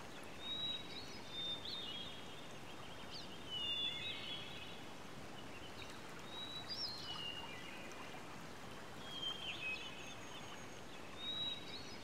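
Tropical forest ambience: a faint steady hiss with high, chirping bird calls that come in short clusters every few seconds.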